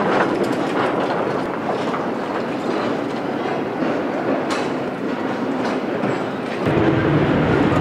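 Narrow-gauge electric mine train rolling along the yard track: steady running noise from the locomotive and wagons with scattered sharp clicks from the wheels on the rails. About a second before the end the sound turns suddenly lower and a little louder.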